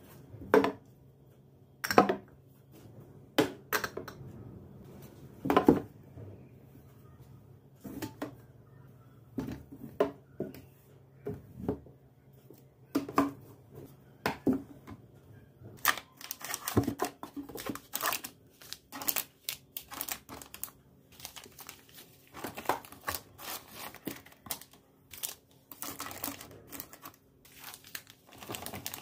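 Kitchen work sounds: separate sharp knocks and clatters every second or two, then about halfway through a denser stretch of crinkling and rustling, like plastic or paper being handled.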